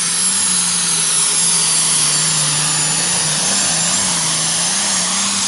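Turbocharged super stock pulling tractor's engine running flat out under load. A high turbo whistle sits over a steady engine note that wavers a little in pitch.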